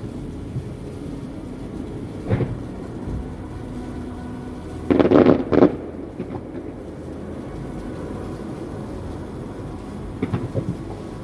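Distant fireworks going off: muffled booms over a steady low rumble. A single burst comes about two seconds in, the loudest cluster about five seconds in, and a few quick pops near the end.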